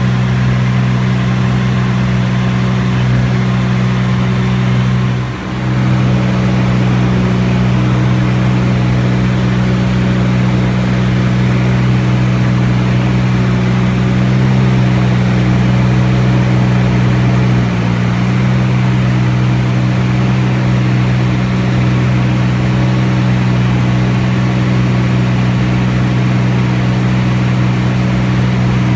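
T-34 Mentor's piston engine and propeller running steadily in flight, a loud even drone heard from on board the aircraft. The drone dips briefly about five seconds in.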